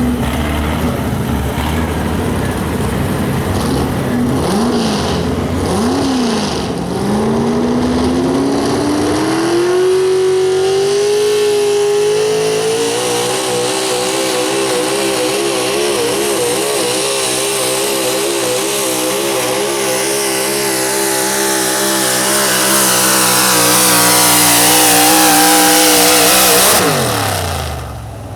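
Super stock 4x4 pulling truck's engine blipping twice, then revving up and held at full throttle during a pull, its pitch wavering while a high hiss builds. Near the end the throttle is let off and the engine note drops quickly.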